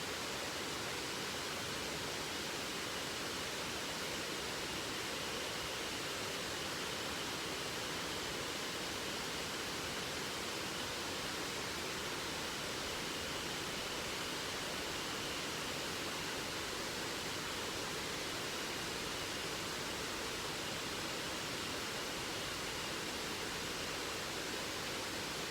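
Steady rush of a waterfall: an even hiss of falling water, unchanging throughout.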